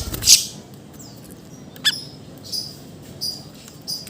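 Siri-siri songbird calling in short, sharp, high-pitched bursts a second or so apart. The loudest comes just after the start, with a sharp, down-sweeping call about two seconds in.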